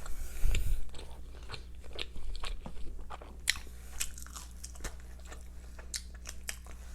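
A person chewing and biting fast food close to the microphone, with irregular wet clicks and crunches. A low thump about half a second in.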